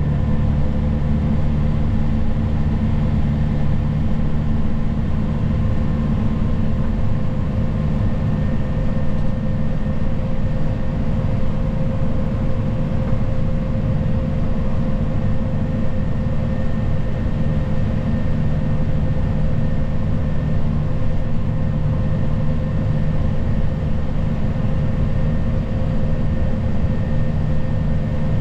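Tractor engine running at a steady speed, heard from inside the cab while plowing snow: a constant low drone with a few faint steady tones above it.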